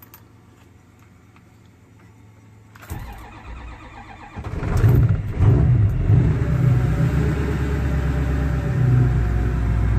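Ford 6.0 Powerstroke V8 turbodiesel cold start: about three seconds in it turns over, catches about a second and a half later with a few loud surges, then settles into a steady idle.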